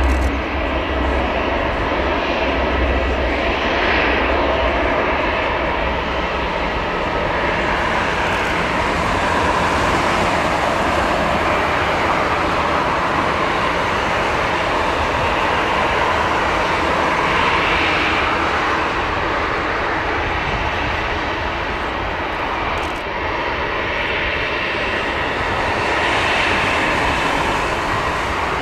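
Antonov An-12A's four turboprop engines running, a loud, steady drone with a broad rush of noise that swells a little now and then.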